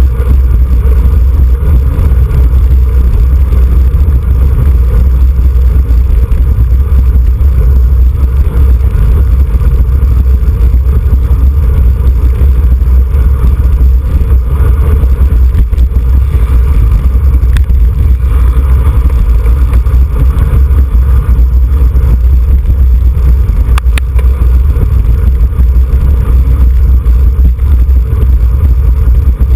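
Wind rushing over the microphone of a camera riding along on a racing bicycle in a road race, a loud, steady rumble.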